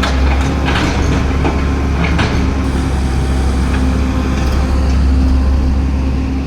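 Excavator's diesel engine running steadily under load, a deep rumble with a constant hum, with a few brief metallic clanks about one and two seconds in.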